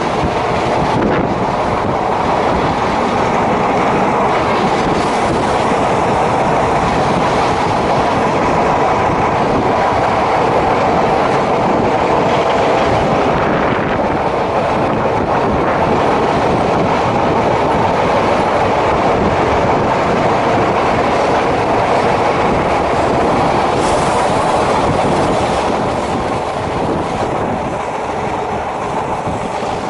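DEMU (diesel-electric multiple unit) passenger train running along the track, a steady loud rumble of wheels on rails that eases slightly near the end.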